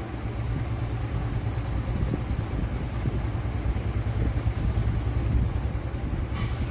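Steady low mechanical hum with a faint hiss over it.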